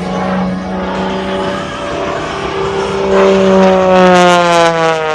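An aircraft making a fast low pass, its engine tone dropping in pitch as it goes by, loudest about four seconds in.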